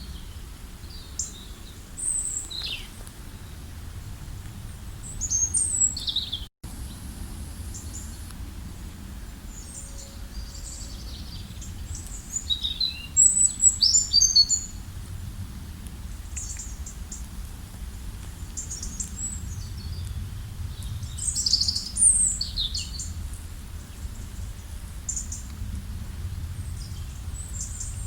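Several wild songbirds chirping and trilling in short high calls, scattered and overlapping, over a steady low outdoor rumble. The sound drops out for an instant about six seconds in.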